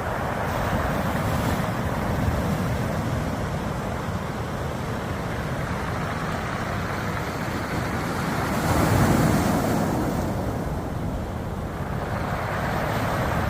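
Sea waves washing over a beach of round pebbles, the stones rattling in the surf. One wave swells up about nine seconds in, the loudest moment.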